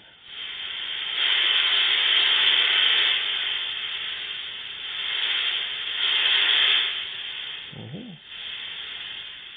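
Homemade white noise generator hissing: noise from a silicon Zener diode in avalanche breakdown, boosted by a transistor preamp and an LM386 amplifier. The hiss swells and eases in loudness, strongest in the first few seconds and again about two thirds of the way in, and drops back near the end.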